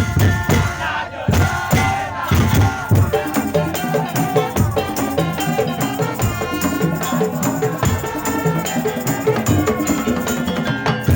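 Madurese tong-tong ensemble playing live: a busy, steady beat of struck percussion with shakers, under a pitched melody line.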